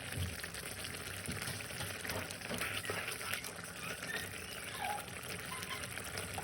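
Chicken and avocado gravy simmering in a pan, a steady wet bubbling with a few faint clicks scattered through it.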